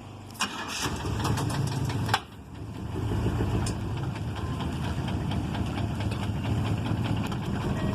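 Ice cream truck's engine being cranked by the starter for under two seconds, then catching and running steadily at idle.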